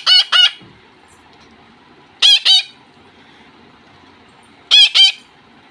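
Pet parakeets calling: three bursts of two or three shrill, sharp notes each, roughly every two and a half seconds.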